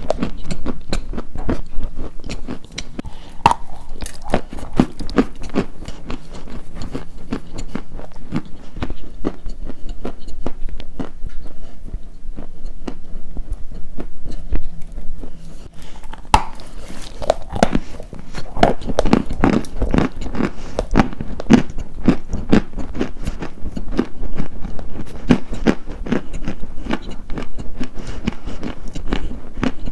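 Close-miked biting and chewing of something crunchy: dense crackling crunches throughout, becoming louder and more rhythmic, about two chews a second, from a little past halfway.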